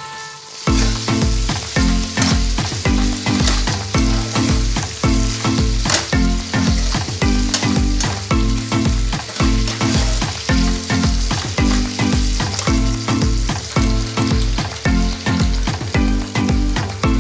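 Chicken gizzards sizzling in oily masala in a nonstick frying pan while a spatula stirs and scrapes through them. Background music with a steady beat of about two a second plays underneath. Both start just after a brief break near the start.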